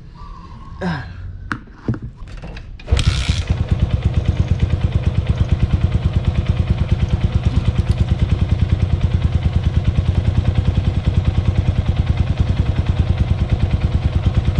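Motorcycle engine starting about three seconds in and catching at once, then idling steadily with an even, pulsing beat as it warms up on freshly changed oil treated with an engine oil additive. A few light clicks come before it starts.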